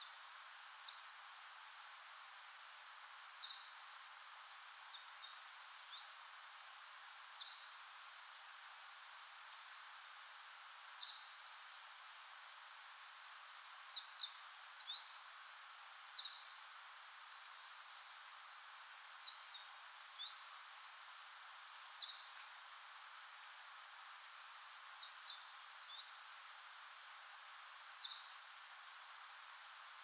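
Small wild birds giving short, high chirping calls, some single and some in quick clusters, every second or two over a steady faint background hiss.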